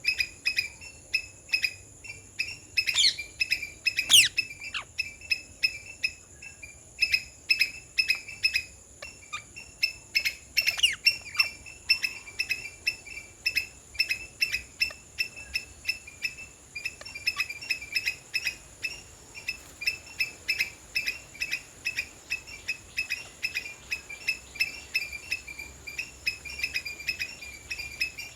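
A sharp chirping call repeats steadily, several times a second, throughout. About three to four seconds in, and again around eleven seconds, loud green parrot screeches sweep downward in pitch. A steady high insect drone runs underneath.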